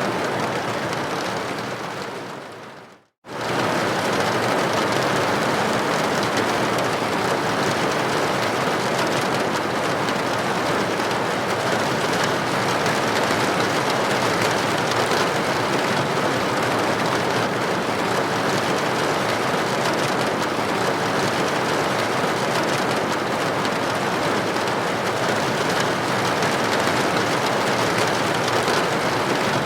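Steady rain hissing against a building's window pane. It fades out over the first three seconds to a brief moment of silence, then comes straight back at full level, like a loop seam in the recording.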